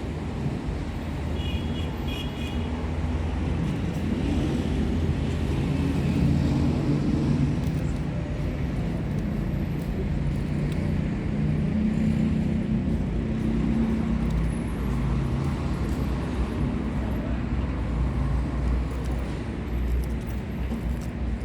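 A steady low rumble, like road traffic, with engine-like tones that slowly drift in pitch. Brief high chirping about a second and a half in.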